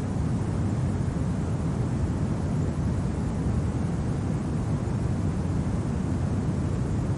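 Steady, low winter wind noise, strongest in the bass, with no separate events.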